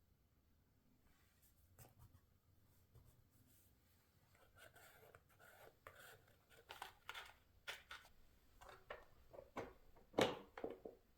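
Paper being handled in scrapbooking: soft scratching and rustling from about halfway through, broken by small taps and one sharper snap near the end.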